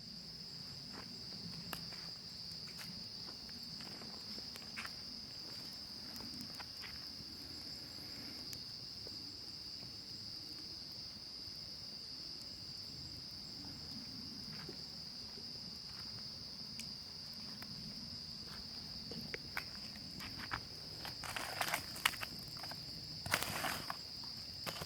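Steady high-pitched chirring of crickets, with scattered small crackles from a wood campfire. A few louder rustling bursts come near the end.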